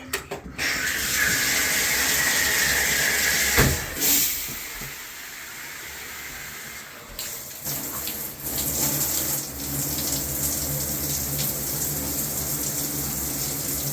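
Water running through a Mixet tub/shower valve, turned on to test a newly fitted cartridge for leaks: a hissing rush with a whistling tone for the first few seconds, a sharp knock about three and a half seconds in, then steady flow.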